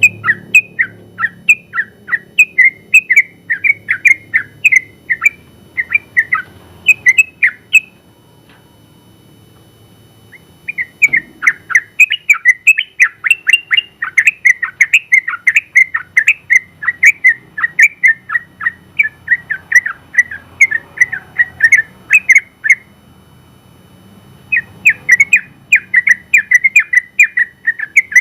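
Yellow-vented bulbul (trucukan) singing long runs of rapid, sharp chirping notes, several a second. Two runs break off into short pauses, about a third of the way in and again near the end.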